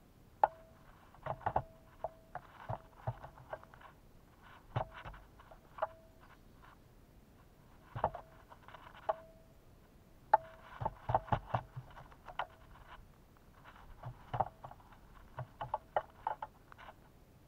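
Birds at a seed and suet feeder, close to the microphone: irregular sharp taps, clicks and scrapes in clusters as they peck and shift about.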